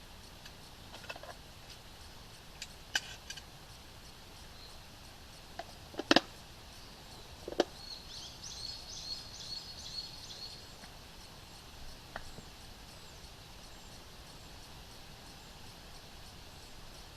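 Scattered sharp knocks and clicks of camp gear being handled, the loudest a double knock about six seconds in. Between about eight and ten seconds a small forest bird twitters in quick high notes.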